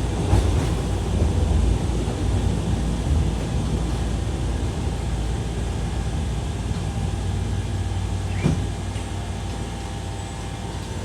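Chikuho Electric Railway 3000-series articulated railcar running on the line, a steady low rumble that slowly gets quieter, with a single clunk about eight and a half seconds in.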